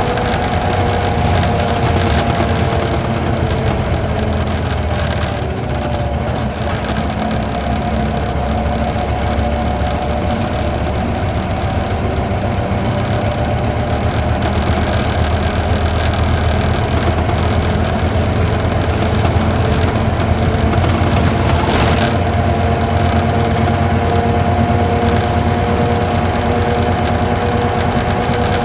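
Isuzu Gala coach's V-type diesel engine pulling steadily uphill under load at low speed, heard from inside the cabin along with road noise. The engine note sags slightly a few seconds in and rises a little about two-thirds of the way through, where there is a single brief knock.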